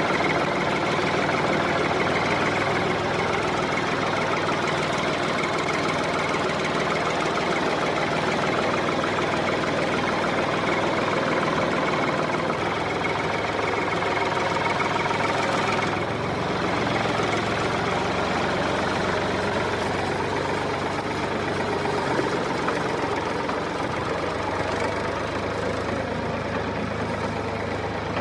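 A motor running steadily with a fast, even rattle and a steady low hum, the engine-like running of the homemade mini tractor; it shifts slightly about halfway through.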